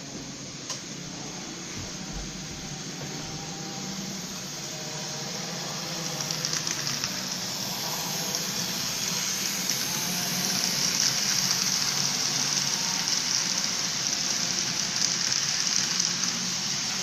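Freight train cars rolling past on the rails, a steady rushing wheel-and-rail noise that grows gradually louder.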